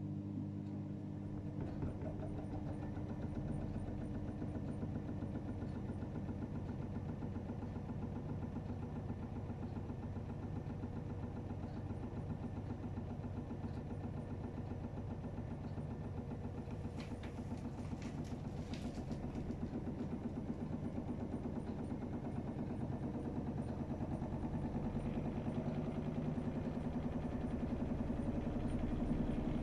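AEG Öko-Lavamat 76910 washing machine running mid-cycle: a steady mechanical hum with a fast churning texture, a few brief clicks about two thirds of the way in, getting slightly louder toward the end.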